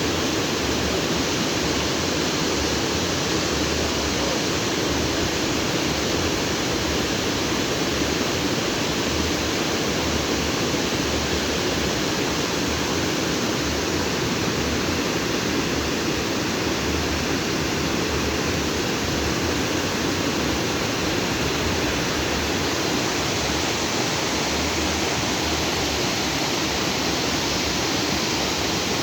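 Stream water rushing and splashing over rocks: a steady, full rush with no break.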